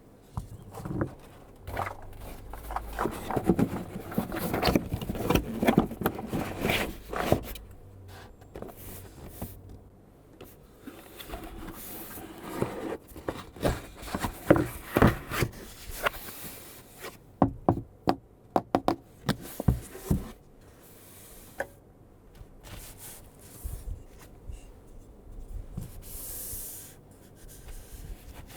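Hands handling the Sigma lens's padded carry pouch and its packaging, with irregular rubbing, scraping and soft knocks. A quick run of sharp clicks comes about two-thirds of the way through.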